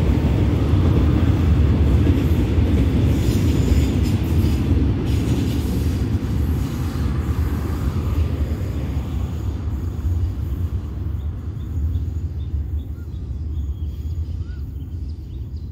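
Container wagons of a freight train rolling along the rails, a steady low rumble that fades away as the end of the train moves off into the distance.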